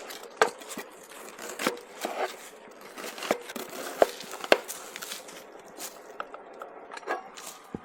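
Small wood fire crackling in a folding camp stove, with a handful of sharp, irregular pops and snaps over a faint hiss.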